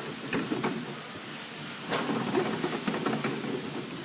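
A race-car cart rolling and rattling over a hard store floor, with a few sharp knocks, the loudest about two seconds in.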